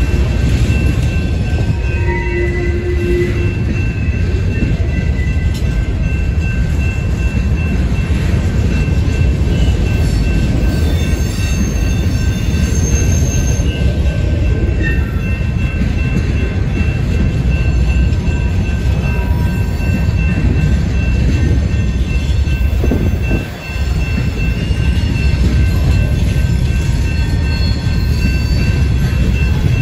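Covered hopper cars of a freight train rolling past close by: a steady heavy rumble of steel wheels on the rails, with faint high thin squeals from the wheels as the train takes the connection track. The rumble dips briefly about three-quarters of the way through.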